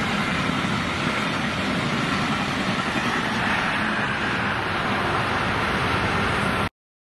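Brightline passenger train passing at speed: a steady, loud rush of rolling and wind noise that cuts off suddenly near the end.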